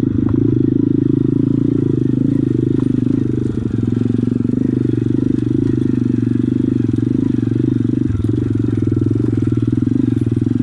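Pit bike engine running steadily at low revs, with a fast even firing pulse and no revving.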